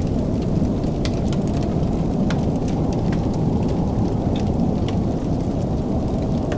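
Wood fire crackling in a fireplace: scattered sharp pops and snaps, several a second at irregular times, over a steady low rumble.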